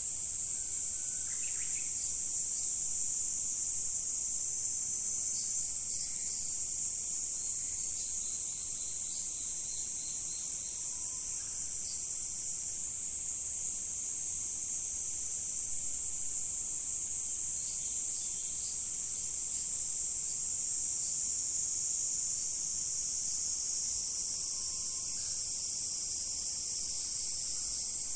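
Chorus of insects in a natural setting, a steady high-pitched shrill that swells slightly a couple of times, with a few faint short calls in the background.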